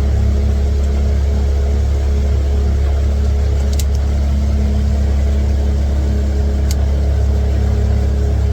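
Small boat's outboard motor running steadily, with two brief clicks partway through.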